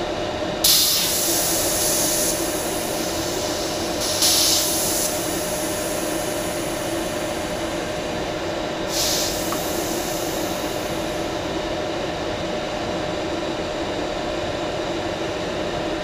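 Benjamin Traveler high-pressure PCP compressor running steadily as its bleed valve is opened three times, letting out sharp bursts of hissing air to vent the pressure in the fill hose after filling to 3,000 psi.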